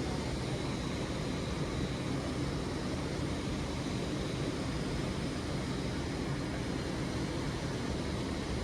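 Steady low rumble and hiss of railway platform ambience, with no distinct events.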